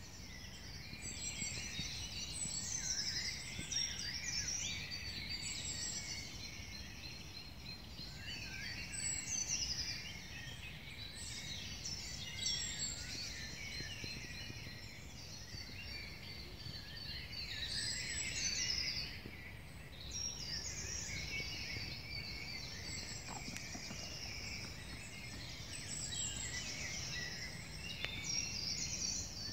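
Several songbirds singing at once, overlapping warbled and falling phrases, over a low steady rumble.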